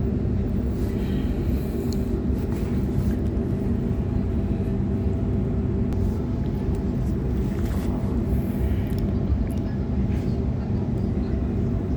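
Sydney Trains Waratah A-set electric multiple unit heard on board: a steady rumble with a low, even hum.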